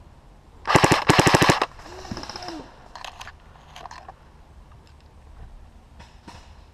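Airsoft electric gun firing two short full-auto bursts close together, about a second in, a rapid even rattle of shots. A few fainter single clicks of distant shots follow.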